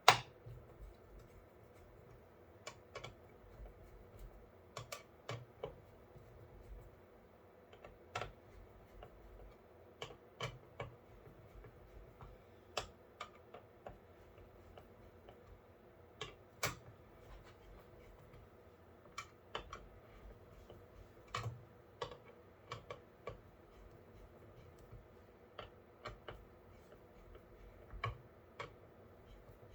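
Irregular small clicks and taps of hard plastic and metal parts being handled while an all-in-one liquid cooler's pump block is unmounted and flipped inside a PC case, with one sharp click right at the start.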